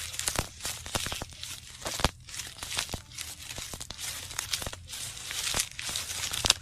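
Plastic bags filled with water being handled and squeezed, crinkling and crackling in quick irregular snaps.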